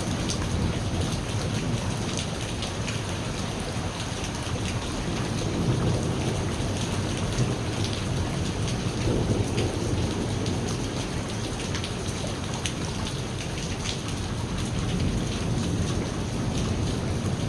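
Steady rain falling on hard surfaces, with many individual drop hits, over a low rumble of thunder that swells and fades.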